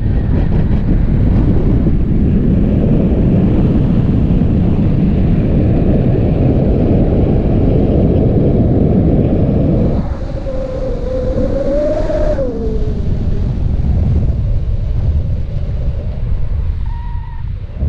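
Wind rushing over the microphone in flight, a dense low rumble. About ten seconds in it eases, and a wavering tone rises and falls for a couple of seconds.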